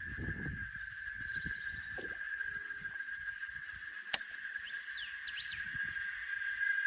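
A steady, high-pitched insect chorus droning without a break, with a single sharp click a little after four seconds in and a few quick bird whistles about a second later.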